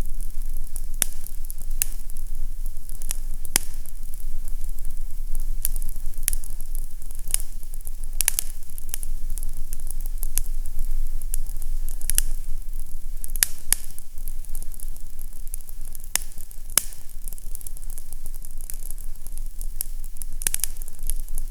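Fireplace fire crackling: irregular sharp pops and snaps over a steady hiss, with a low rumble beneath.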